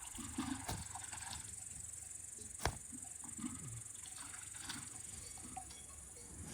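Insects chirring steadily at a high pitch, with scattered small knocks and rustles and one sharp click about two and a half seconds in.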